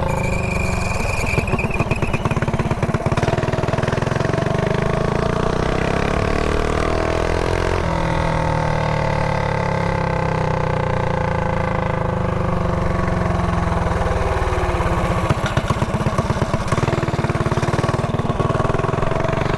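Mini bike engine running while riding. Its pitch climbs slowly for several seconds, jumps up about eight seconds in, winds down slowly, and climbs again near the end.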